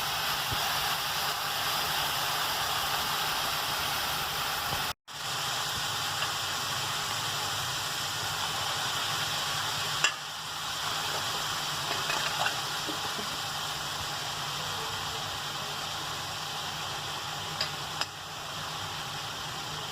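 Food sizzling as it fries in a hot pan, with a few sharp clicks of a utensil against the pan while it is stirred. The sound cuts out for an instant about five seconds in.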